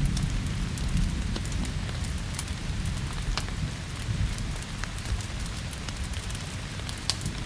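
Steady rain with a low thunder rumble that fades over the first few seconds. Sharp pops and crackles from a burning wood fire are scattered throughout.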